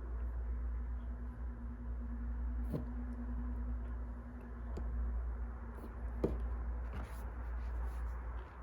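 Wood fire crackling: a steady low rumble and soft hiss broken by a few sharp pops.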